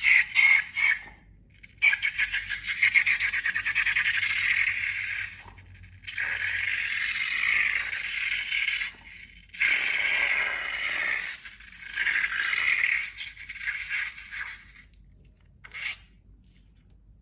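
Slime being worked by hand, a crackling, scraping sound that comes in several bursts of one to three seconds with short pauses between them.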